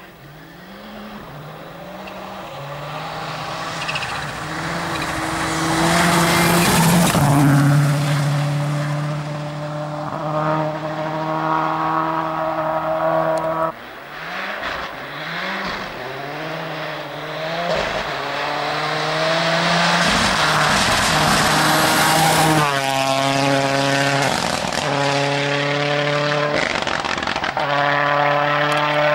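Rally car engines at full throttle on a stage, revving hard and climbing through the gears as the cars accelerate past, with tyre and gravel noise. The sound breaks off suddenly about halfway through, then a second pass builds, with quick rising revs after each gear change.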